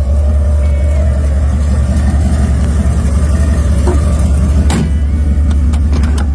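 Car engine running with a steady deep rumble and a slight waver in pitch, with a few sharp knocks near the end.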